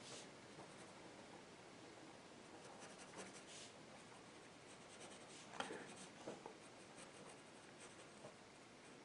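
Faint scratching of a pencil on paper, a few short drawing strokes in the middle.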